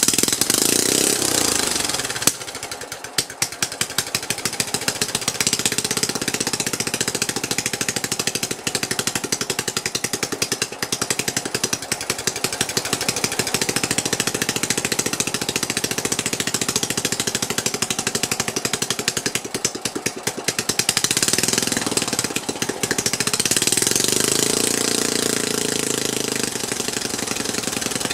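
Rebuilt Tecumseh engine of a Sears LT1036 lawn tractor running loud with no muffler, on a straight open exhaust, on its first run after the rebuild. It fires in a fast steady rattle, and the revs rise twice in the second half as the throttle is worked by hand.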